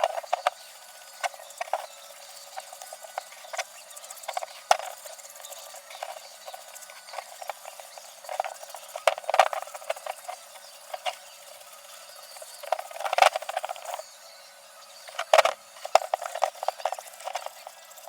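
Irregular clicks, knocks and short runs of rapid ticking from hand tools and metal parts being handled.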